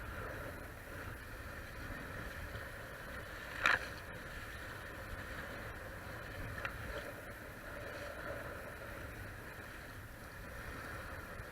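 Steady rush of water along a Hobie Cat catamaran's hulls under sail, with a low rumble beneath. A sharp, loud splash comes about three and a half seconds in and a smaller one around seven seconds.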